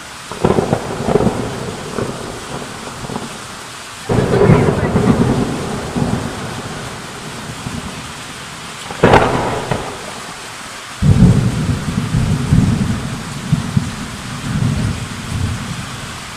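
Heavy rain with hail pouring steadily, broken by several loud low rumbling bursts that start suddenly, the sharpest a crack about nine seconds in.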